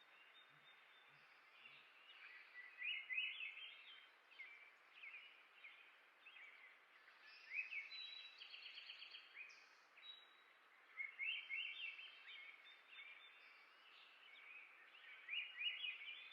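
A songbird singing outdoors: four short phrases of quick, high chirping notes spaced a few seconds apart, with scattered single chirps between them over a faint background hiss.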